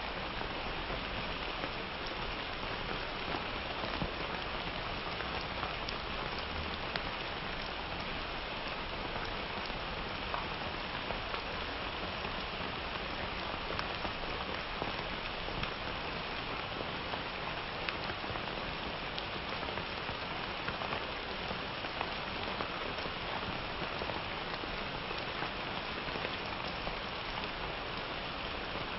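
Steady summer rain falling on hard surfaces, an even hiss with many small drop ticks scattered through it.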